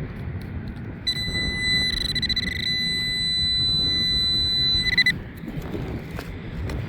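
Nokta Accupoint pinpointer sounding over metal: a high electronic tone that pulses rapidly, then holds steady for a few seconds and pulses again before cutting off. It is ringing up strongly on a whole buried drink can. Wind rumbles on the microphone.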